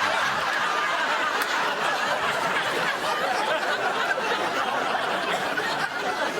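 A crowd laughing, one long continuous laugh at a steady level.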